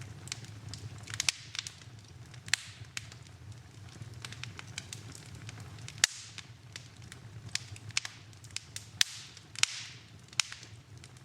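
Wood fire crackling in a fireplace: irregular sharp pops and snaps over a steady low rush, with the loudest pop about six seconds in.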